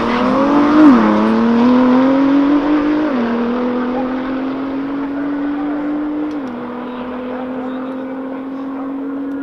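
A high-performance car engine at full throttle on a drag-strip run, its note climbing through each gear and dropping at quick upshifts about one, three and six and a half seconds in, fading as the car pulls away.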